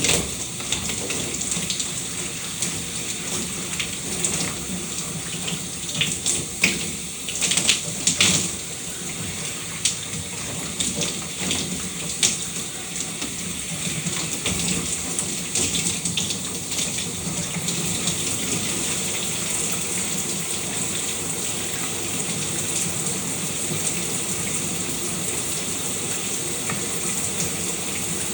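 Shower water running: a steady hiss of spray, with several sharper splashes and spatters in the first half, then a more even flow.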